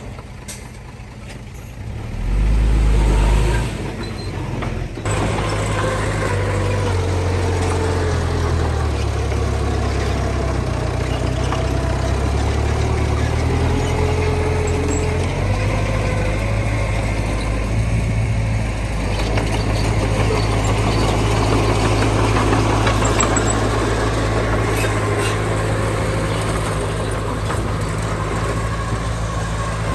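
Heavy diesel engine of earth-moving machinery running steadily, with a brief louder low rumble about two to three seconds in.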